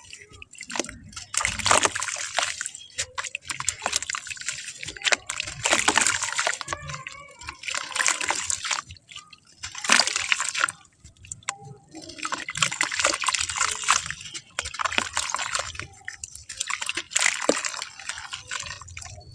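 Wet clay sloshing and splashing in water, in repeated bursts about every two seconds.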